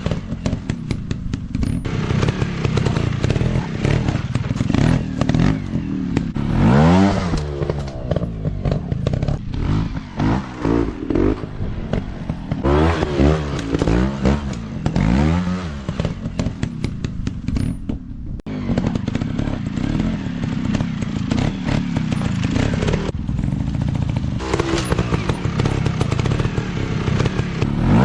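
Dirt bike engines running hard, their pitch sweeping up and down again and again as the throttle is opened and closed, with scattered knocks and clatter.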